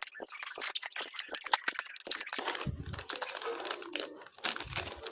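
Crinkling and rapid irregular clicking of material being handled, with a couple of dull thumps partway through.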